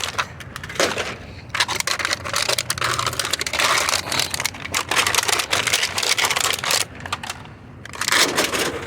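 Empty aluminum drink cans crunching and clattering as they are crushed and handled, a dense run of crackles and sharp clicks with a short lull near the end.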